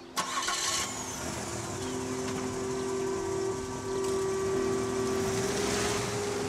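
A car engine starts with a sudden burst about a quarter second in, then runs steadily, swelling near the end as the sedan pulls away. Low held tones of background music sound underneath.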